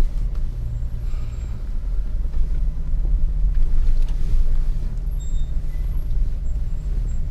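A 4x4's engine running low and steady as it crawls slowly over rocks, giving a deep rumble. A few faint, short squeaks come about five seconds in.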